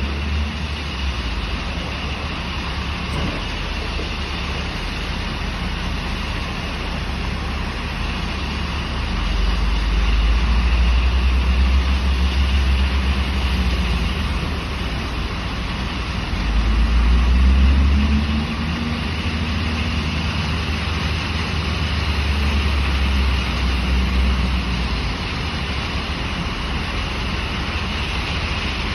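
JCB telehandler's diesel engine running steadily, twice swelling louder for a few seconds as it picks up revs.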